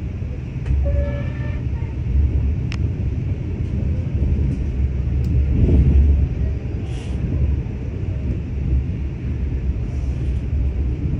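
KTM train running along the track: a steady low rumble with a few sharp clicks.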